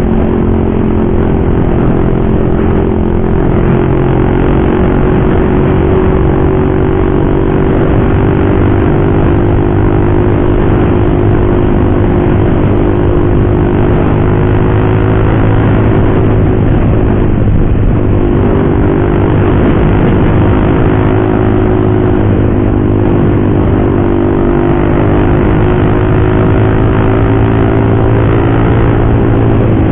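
Motorcycle fitted with a loud aftermarket racing exhaust, running at a steady pace with a steady engine note that dips briefly about three seconds in and again around the middle.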